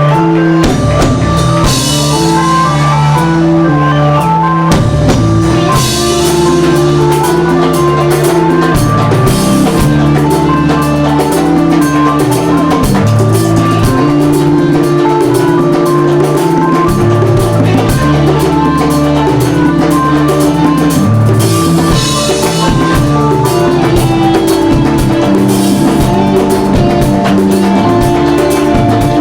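Live rock band playing: a drum kit with a steady beat and cymbal crashes at a few points, bass and guitar, over the sustained chords of a Hammond organ.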